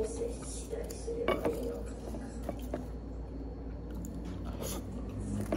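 A person chewing a bite of freshly fried, breaded food, with crisp crunching and a few sharp clicks, the loudest near the start and about a second in.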